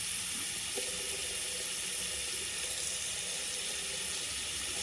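Hot-water tap running steadily, a continuous even hiss of flowing water. The water is just starting to come through warm as the repaired water heater is tested.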